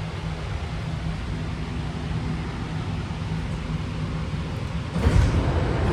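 Steady low hum of a BART train car standing at a station. About five seconds in, a sudden louder rumble with a hiss breaks in.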